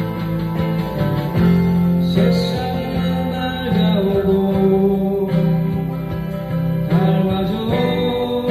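Live acoustic guitar music: acoustic guitars strumming and picking through an instrumental passage of a song, with sustained notes changing every second or so.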